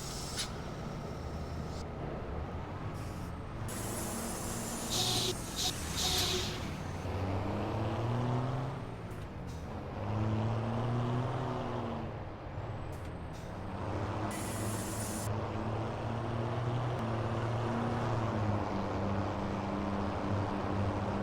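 Scania V8 diesel truck engine running, its pitch rising and falling twice as it is revved and eased off. Several short hisses of air break through, the clearest about a quarter of the way in and another past the middle, typical of air-brake releases.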